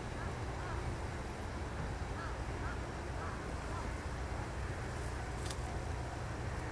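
Birds calling in short, rising-and-falling notes, several times in the first few seconds, over a steady low rumble of wind and distant background noise; a brief high hiss about five and a half seconds in.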